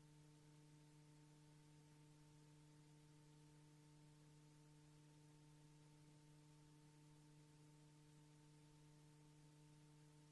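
Near silence: only a faint, steady low hum with a trace of hiss.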